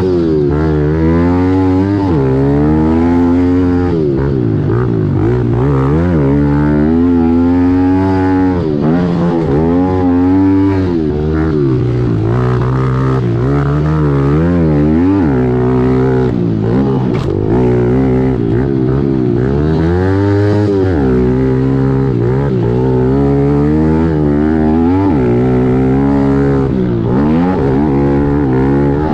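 2017 Kawasaki KLX110L's small air-cooled single-cylinder four-stroke engine racing on a motocross track, revving up and falling off again every second or two as the throttle is worked through corners and jumps.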